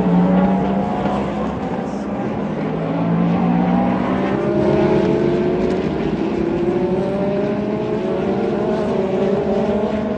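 Several race car engines running at once, loud and continuous, with engine notes climbing slowly in pitch for several seconds as the cars accelerate.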